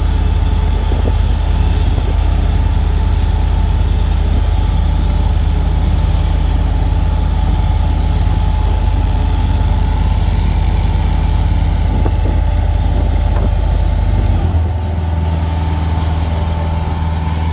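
A heavy engine running steadily at low speed, with a deep, even drone; about fourteen seconds in its note shifts and the lowest rumble drops away.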